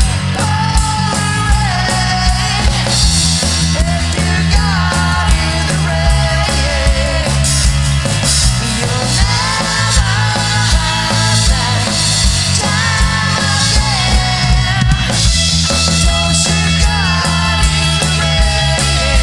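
A rock band playing a song, with drums keeping a steady beat under a bass line and a lead melody.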